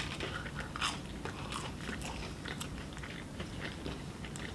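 Chicken nuggets being chewed close to the microphone, with scattered soft mouth clicks and smacks.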